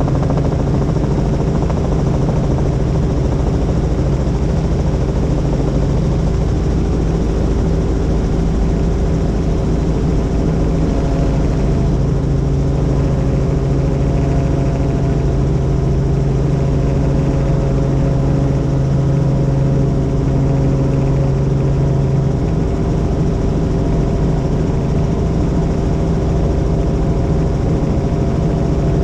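Helicopter in flight: a steady, loud engine and rotor drone with a deep hum that strengthens for a while in the middle and then eases slightly.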